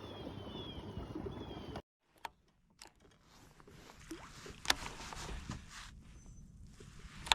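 Steady water and wind noise around a kayak, with a few short descending chirps, cuts off abruptly about two seconds in. It is followed by quieter hiss with scattered small clicks and knocks, the sharpest near the end.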